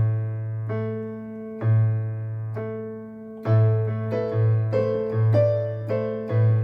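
Piano played slowly: a held low bass note under a stepwise line of single notes, the notes coming more quickly in the second half.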